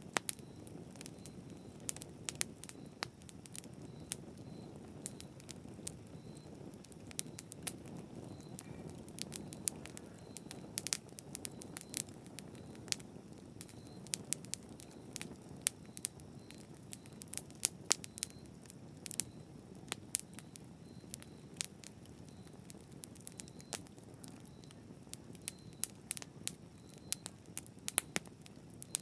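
Campfire crackling: frequent sharp pops and snaps of burning wood, irregular, over a low steady rush of flame.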